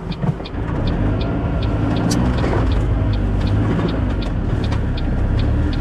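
Road and engine noise inside the cabin of a moving 2004 Ford Focus, with a steady ticking about three times a second from the turn signal. There is one sharper click about two seconds in.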